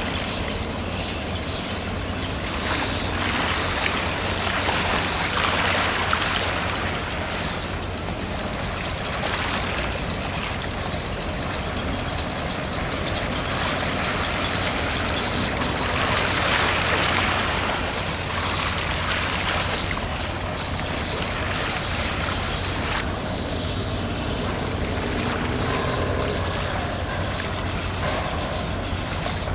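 Container ship's engine drone, a steady low hum, under the rush of water from its wake, which swells and fades in waves.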